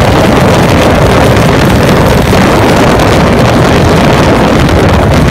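Caterham 7's Honda Blackbird 1100 motorcycle engine running loud and steady as the open car drives at speed, with heavy wind noise on the microphone.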